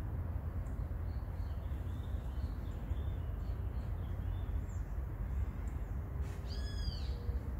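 Birds chirping faintly in the trees over a steady low rumble. About six seconds in, one louder call rises and falls over a bit under a second.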